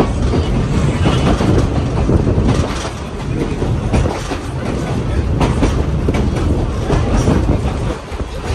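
Heritage passenger train running along the track, its wheels clicking over rail joints through a steady rumble.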